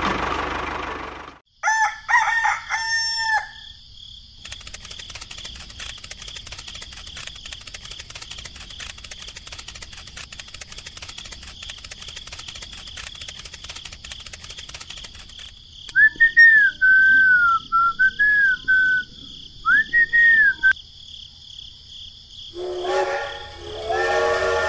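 A rooster crowing in a few short calls about two seconds in, followed by a long stretch of fine steady ticking with a thin high whine. Whistled birdsong with rising and falling glides comes in past the middle, and near the end a train whistle sounds as a chord of held tones.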